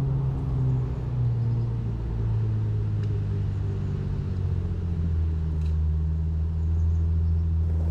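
Aston Martin V12 Speedster's twin-turbo V12, breathing through a Quicksilver Titan sport exhaust with race cats, running steadily at low revs. Its pitch eases a little lower over the first couple of seconds, then holds.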